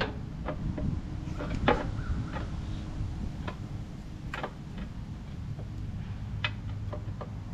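Irregular light clicks and clinks of metal tools and parts being handled, about seven in all, over a steady low hum.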